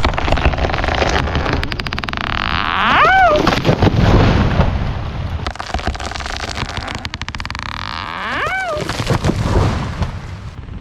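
Tree falling after the felling cut: the hinge wood creaks and cracks as the trunk goes over. Two long creaks rise and fall in pitch about five seconds apart, over rapid snapping, with a low rumble around the four-second mark.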